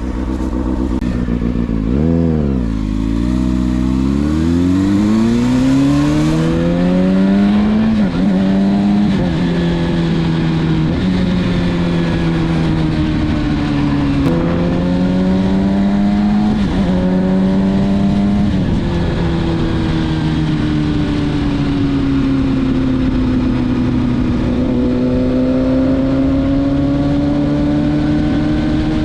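Kawasaki ZX-6R's inline-four engine through a Leo Vince SBK titanium exhaust, accelerating hard through the gears. A quick rev up and down about two seconds in, then the revs climb and drop back at a string of upshifts, before the engine settles into a steady cruise with the revs easing down and back up near the end.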